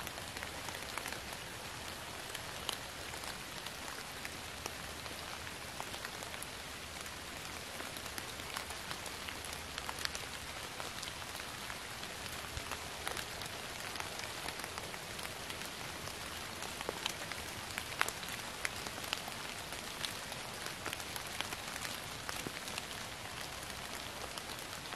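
Steady rain falling on fallen leaves, an even hiss with scattered single drops ticking through it.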